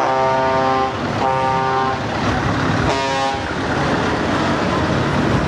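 Truck horn blown three times, steady in pitch: two blasts of about a second each, then a shorter one about three seconds in, over steady traffic noise.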